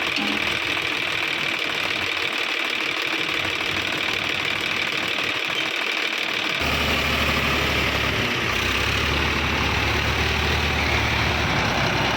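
Sonalika DI 750 tractor's diesel engine running steadily. About six and a half seconds in, a deeper, slightly louder low note comes in and holds to the end.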